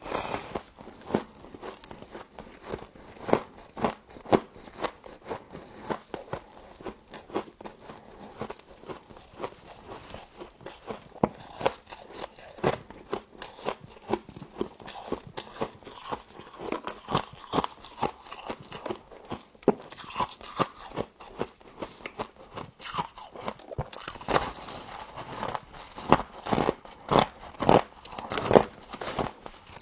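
Frost being bitten and chewed: many irregular, sharp crunches, coming thicker in the second half.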